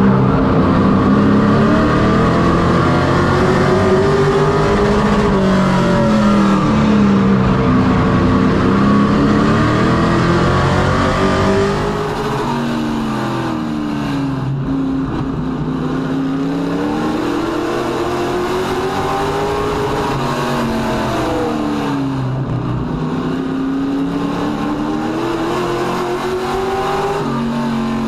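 Pro racing truck engine running hard on track, its pitch rising as it accelerates and falling as it lifts, over and over in a cycle of about seven to eight seconds, like laps of a short oval. The sound gets a little quieter about twelve seconds in.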